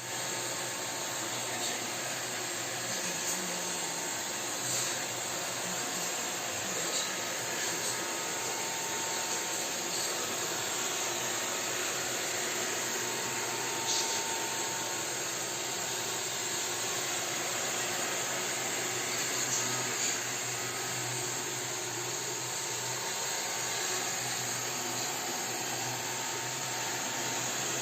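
Robot vacuum cleaner running steadily on the floor: a constant motor and suction noise with a faint steady whine. There are a few brief light clicks or knocks from it bumping along.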